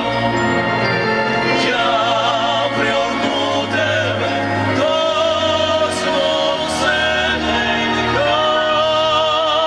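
Vocal music sung in a classical, operatic style, with long held notes and strong vibrato over a steady low accompaniment.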